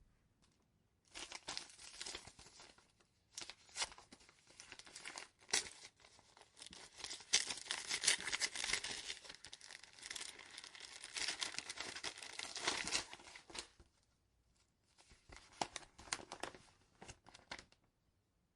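A paper envelope being torn open and handled, with crackling, tearing rustles. The sound comes in bursts: a long, loud stretch in the middle, a short pause, then a shorter burst before it stops near the end.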